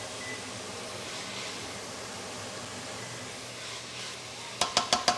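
Food frying in a pan, a steady low sizzle. Near the end comes a quick run of six or seven sharp metallic clinks that ring briefly.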